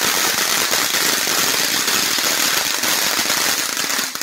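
Ground fountain fireworks spraying sparks: a steady loud hiss thick with fast crackling.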